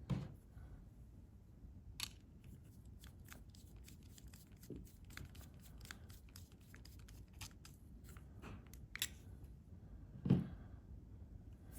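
Small chainsaw carburetor parts and hand tools being handled on a workbench during reassembly: scattered light clicks and ticks, with a louder knock near the start and another near the end.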